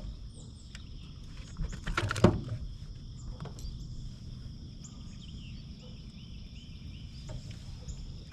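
Outdoor ambience: a steady high insect drone with repeated short chirps over a low rumble. A brief cluster of knocks and thumps comes about two seconds in.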